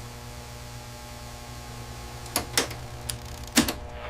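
Steady machinery hum with several sharp clicks or ticks about two and a half seconds in.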